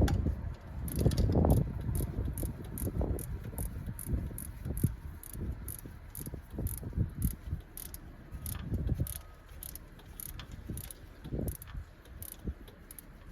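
Socket-wrench ratchet clicking in short strokes, about two to three clicks a second, while working a stubborn 14 mm bolt on an engine, with low knocks of the tool and hands against metal.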